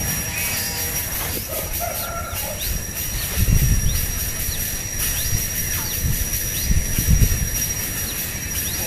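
Short, faint high chirps over a steady hiss and a continuous high whine, with low rumbles about three and a half and seven seconds in.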